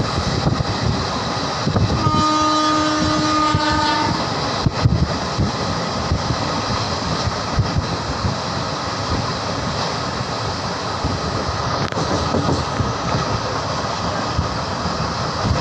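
Passenger train running, with a steady rumble and rush of air heard from the open coach door. A train horn sounds about two seconds in and holds for about two seconds.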